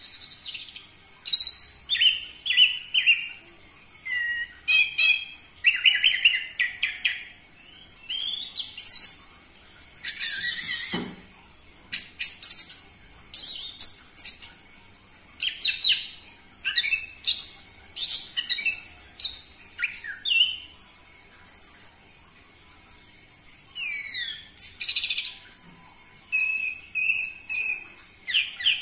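Orange-headed thrush (anis merah) singing: a string of short, varied phrases of high sliding whistles and chirps, about one a second with brief pauses between.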